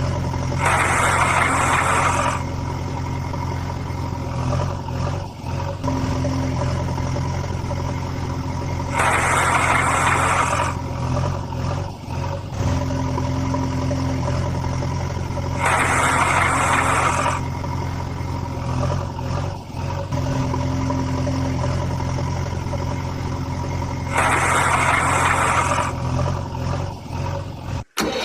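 A vehicle engine idling steadily, with a burst of hissing about every seven to eight seconds, four times in all, and a brief dropout near the end.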